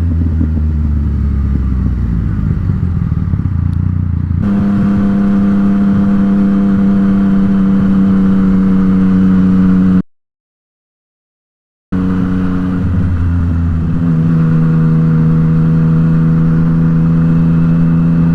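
Yamaha MT-09 inline-three motorcycle with an Akrapovic exhaust running at steady cruising revs. The engine note jumps to a different, steadier pitch at an abrupt cut about four seconds in. The sound drops out completely for about two seconds past the middle.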